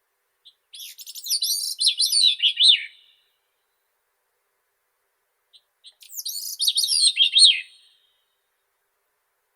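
Grey-cheeked thrush singing: two songs a few seconds apart, each a short soft note followed by about two seconds of rapid high notes that slide downward in pitch toward the end.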